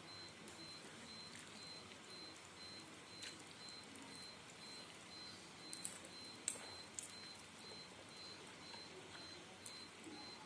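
Faint steady hiss with a few light, separate clicks and taps of eating utensils against a bowl of noodle soup.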